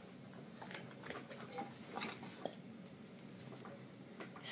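Faint scattered clicks and light taps from working the ceiling fan's pull-chain speed switch, whose chain has broken, so the speed cannot be changed. A low steady hum runs underneath.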